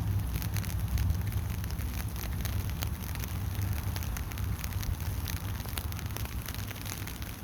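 Steady rain: many small, irregular raindrop ticks pattering over a low rumble.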